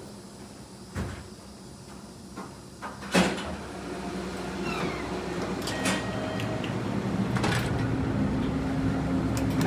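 Hydraulic elevator's sliding doors closing, with a few clicks and a loud thud about three seconds in as they shut. Then a steady low hum starts and grows louder as the car gets under way.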